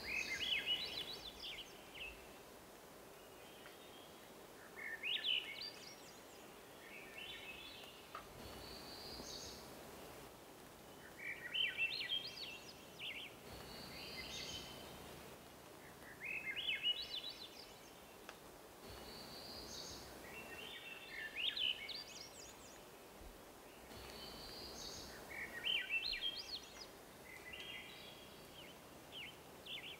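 A songbird sings the same short phrase over and over, about every five seconds. Each phrase is a quick run of high notes climbing in pitch, over a faint steady background hiss.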